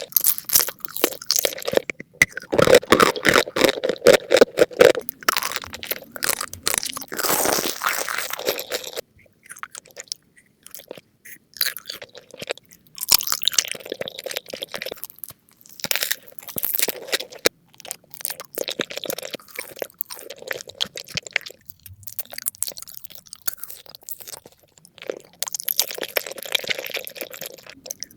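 Close-miked eating: crunchy bites and chewing, dense and crackly at first, then in separate bouts with short pauses between them.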